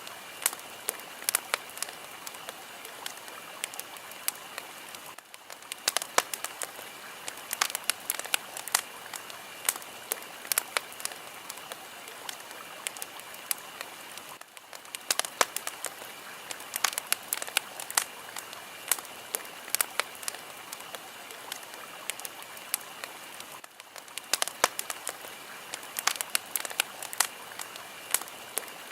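Fire crackling: irregular sharp pops and snaps over a steady hiss. The hiss dips briefly about every nine seconds.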